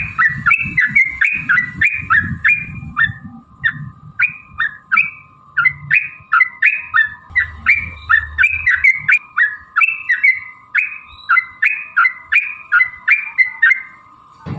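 Yellow-vented bulbul (trucuk) singing a long unbroken run of short, bubbly chirping phrases, about three notes a second, the 'ropel panjang' song used to lure other bulbuls into singing.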